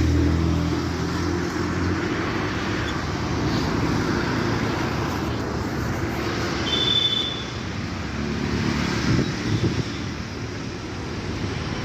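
Road vehicle engines and traffic noise. A low engine hum is strongest for the first two seconds and returns about eight seconds in, and a brief high squeal comes about seven seconds in.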